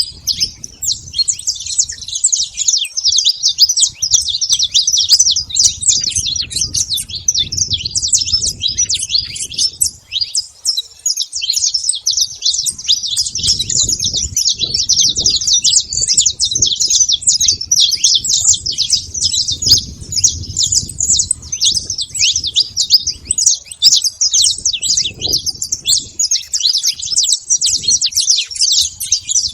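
Saffron finch singing: a continuous stream of rapid, high chirps and trills, with a short lull about ten seconds in. A faint low rumble comes and goes underneath.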